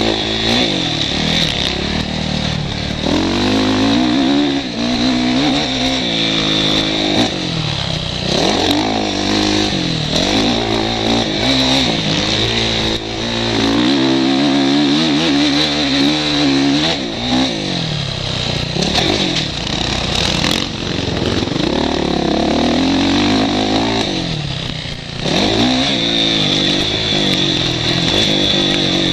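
Motocross bike engine heard from the rider's helmet camera, revving up and dropping off again and again through gear changes, with clatter and knocks from the bike over the track.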